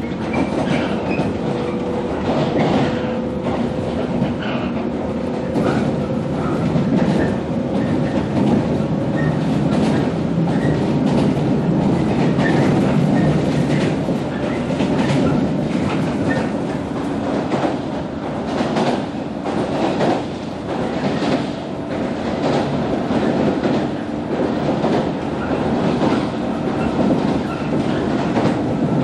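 Interior running sound of a JR 115 series electric train cruising, with the hum of its MT54 traction motors under the rumble of the wheels and a rapid clicking as the wheels cross rail joints.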